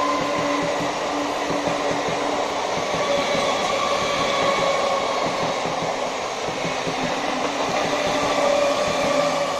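Electric multiple-unit suburban local train running, a steady motor whine with several held tones over rail and wheel noise.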